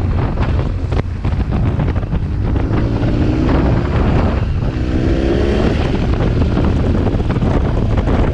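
BMW R 1200 GS flat-twin engine with an SC Project exhaust running while the bike is under way, with wind rushing over the microphone. The engine note rises twice, about three and five seconds in.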